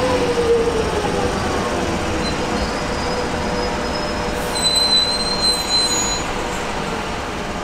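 Electric suburban train running past along the platform with a steady rumble of wheels on rail. Its motor whine falls in pitch in the first second. Thin high-pitched wheel squeals come in from a couple of seconds in and fade near the end.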